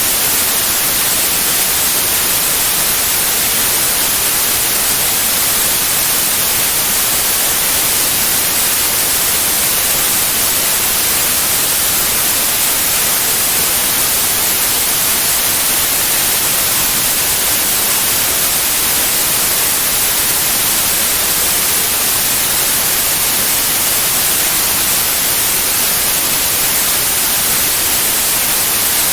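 Steady white noise: an even, unbroken hiss that is brightest in the treble and does not change.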